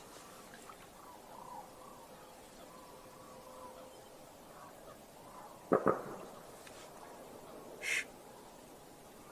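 Two quick, loud duck quacks just before six seconds in, over a faint steady background. A short, higher-pitched call follows near eight seconds.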